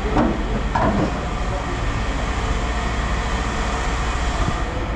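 A steady low mechanical rumble with a haze of noise above it, holding an even level throughout.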